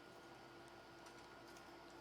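Near silence: room tone with a steady faint hum and a few faint, scattered ticks.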